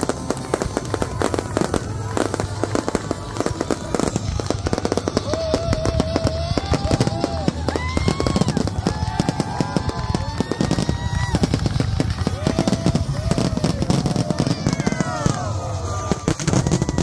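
Fireworks display firing in rapid succession: a dense run of bangs and crackles, with held and gliding tones over it.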